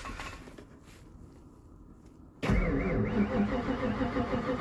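Starter motor cranking the 1996 Ford F-150's 351 Windsor V8 on a 1 °F cold start. It comes in suddenly about halfway through with a rhythmic, wavering churn, after a quiet couple of seconds.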